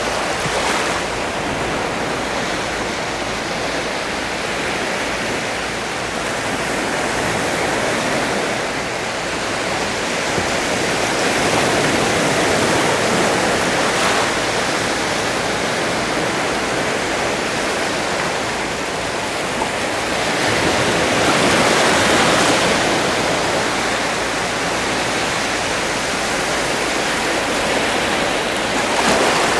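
Sea waves washing continuously onto the shore: a steady rush of water that swells and eases slowly, with larger surges about 12 seconds in and again around 22 seconds.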